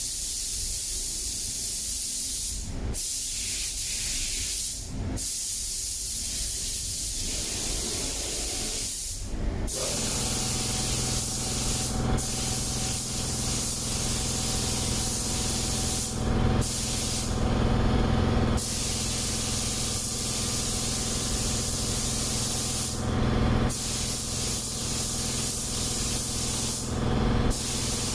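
Spray gun hissing as glossy clear coat is sprayed onto car panels, with several short breaks where the trigger is let go. A steady machine hum joins about a third of the way in.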